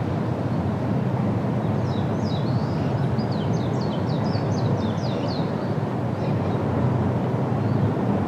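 A steady low noise, with a small bird twittering over it for a few seconds in the middle: a run of quick, high downward chirps.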